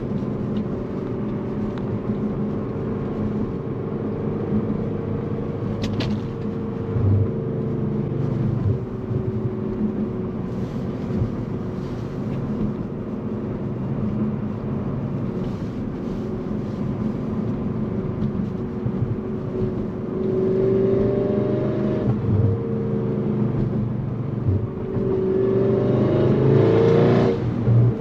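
Tuned Audi S6 driving with steady engine and road noise, then accelerating twice near the end, the engine note rising in pitch each time.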